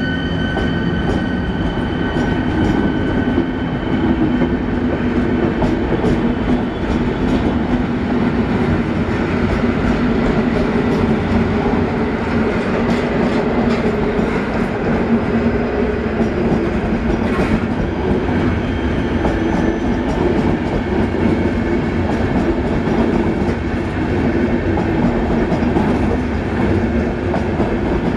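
Long train of passenger coaches rolling past along a station track, its wheels clattering steadily over the rail joints.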